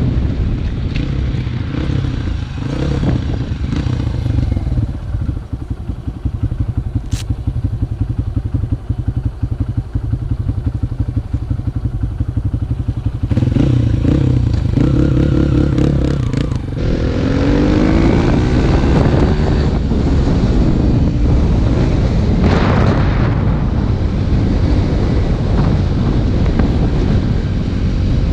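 Dirt bike engine running: a steady low rumble, then a quieter stretch of even, fast idle pulses, before it picks up again and revs with rising and falling pitch in the second half.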